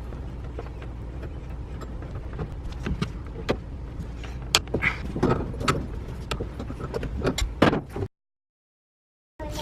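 Scattered clicks, knocks and clanks of a washing-machine supply hose being worked loose and unscrewed from its hose bib, over a steady low hum. The sound drops out entirely for about a second near the end.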